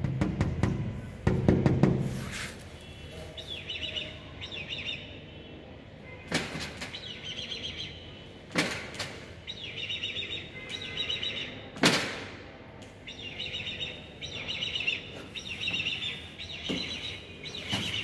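Birds chirping in short, high, trilling bursts that repeat every second or so. Three sharp knocks come through about six, eight and a half, and twelve seconds in.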